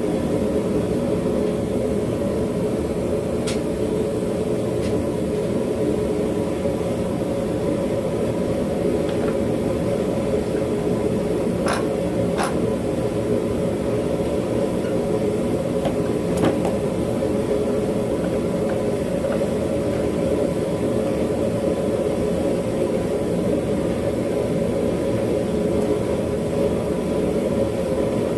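Propane forge burner running with a steady roar, broken by a few brief sharp clicks.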